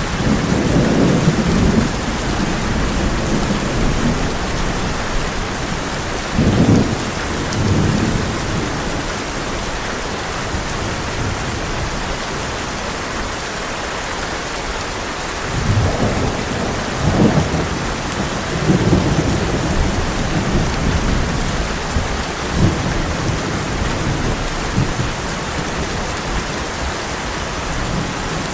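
Heavy rain drumming steadily on a tin roof, with low rolls of thunder that swell and fade several times.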